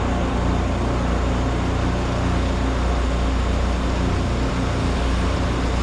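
Two Honda iGX800 V-twin pressure washer engines running steadily together.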